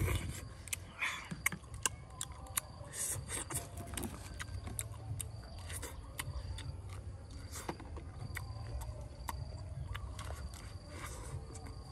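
Close-up eating sounds: chewing and many sharp little mouth clicks and smacks as roasted corn is bitten off the cob.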